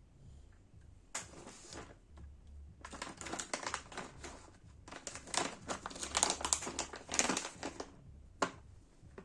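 Crinkling and rustling handling noise in three bursts, made up of many small crackles, with one sharp click near the end.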